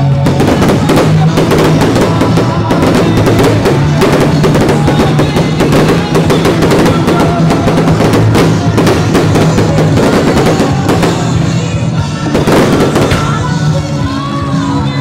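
Loud music with a drum beat, mixed with dense, irregular sharp pops and crackles of fireworks going off.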